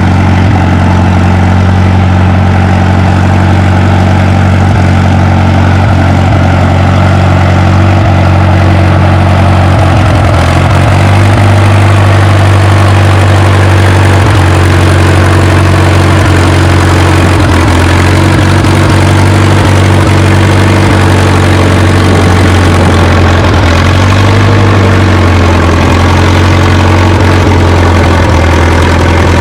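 Loud, steady sound of an antique tractor's engine working hard under load as it pulls the weight-transfer sled down the track. The engine note wavers slightly near the end.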